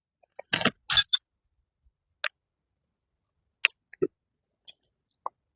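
Tent stakes and a peg mallet being handled while a tarp line is pegged down: a scattering of short, uneven clicks and knocks, two close together about a second in and a heavier knock at about four seconds.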